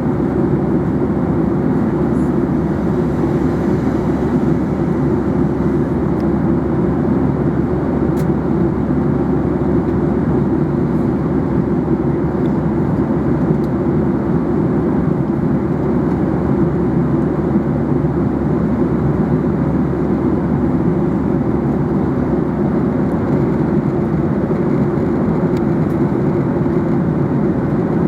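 Airliner cabin noise in flight: a steady, unchanging rush of engine and airflow noise, heaviest in the low range.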